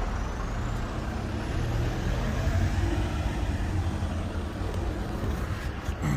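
Steady low rumble of a motor vehicle running, with road or traffic noise over it.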